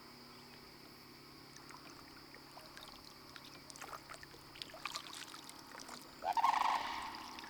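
Steady high trill of insects over light water sounds and small knocks around a kayak. About six seconds in, a goose honks loudly once, the call trailing off.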